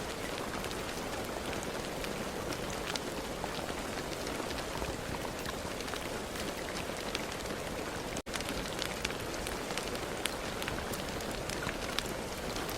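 Steady rain falling: a dense, even hiss with many single drops ticking through it. The sound cuts out for an instant about eight seconds in.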